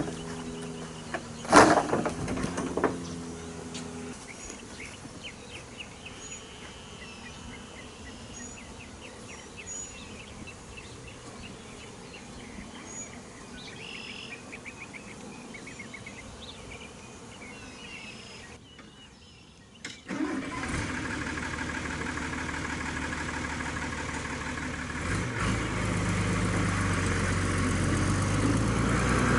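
A vehicle engine hums for the first few seconds, with a sharp knock about a second and a half in, then falls away to outdoor ambience with birds chirping and insects. After a break a little before two-thirds of the way through, a vehicle engine runs steadily and grows louder toward the end.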